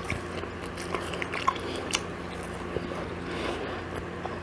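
A person chewing food, with scattered small wet clicks and smacks over a faint steady hum.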